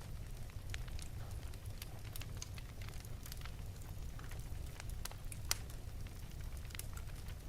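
Wood fire burning in an open fireplace: scattered sharp crackles and pops over a steady low rumble, with one louder pop about five and a half seconds in.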